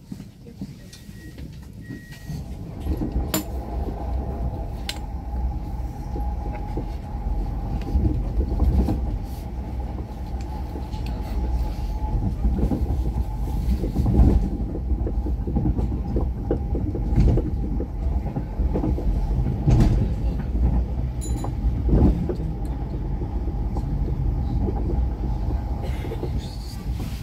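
SJ X2000 electric tilting train heard from inside the passenger car while running on the line: a steady rolling rumble of wheels on track with a steady tone above it, and a few sharp knocks. The rumble comes up about three seconds in.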